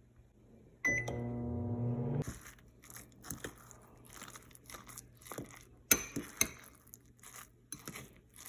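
Scrambled eggs being eaten: scattered small clicks of a utensil on a dish and crunchy chewing sounds. A brief steady hum comes about a second in.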